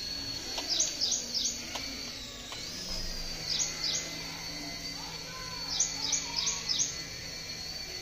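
A bird chirping in quick runs of two to four short, falling notes, three times. Beneath it, the faint steady hum and high whine of a toy RC helicopter's electric motor and rotors, which shift in pitch together about a third of the way in as the throttle changes.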